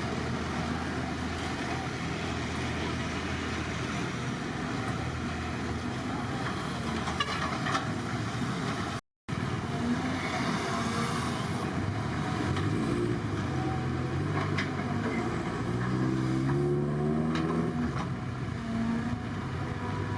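Heavy diesel earthmoving machinery running steadily, with a brief silent cut about nine seconds in.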